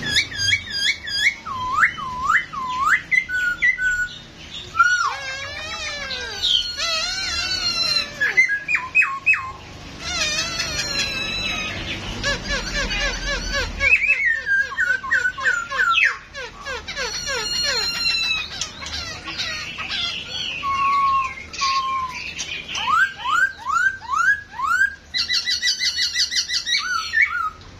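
Poksay Hongkong (masked laughingthrush) singing a long, varied song of loud whistled notes. It mixes swooping glides that rise and fall with fast runs of short rising notes and repeated phrases.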